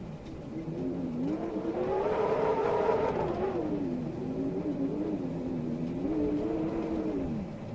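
Wind howling in gusts, its pitch swelling up and falling away twice over a steady low rumble; the first gust, a few seconds in, is the loudest.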